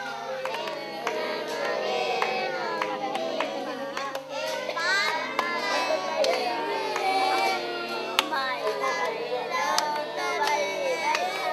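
Children singing together in a group, several voices overlapping, with occasional sharp clicks or taps.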